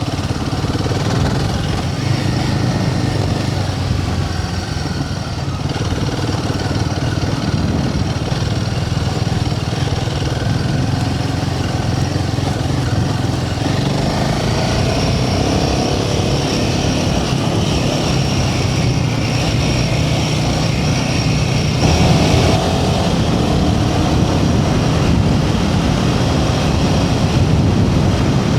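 Royal Enfield Himalayan 450's single-cylinder engine running steadily while riding, its pitch shifting a little with the throttle.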